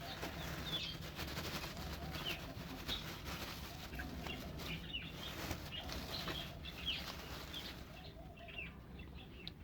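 Birds in a poultry and pigeon aviary: scattered short chirps over a rustling, fluttering background of wings and movement.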